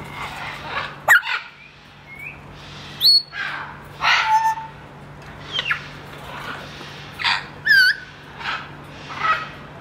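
A parrot vocalizing in a string of short, varied calls: chattering, squawk-like sounds and whistles, with a sharp rising whistle about three seconds in and a warbling whistle near the end.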